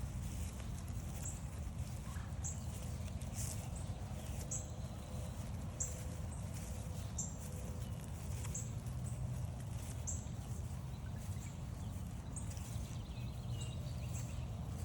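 A songbird repeating a single short, high-pitched note about every second and a half, over the steady low sound of footsteps on a woodland trail.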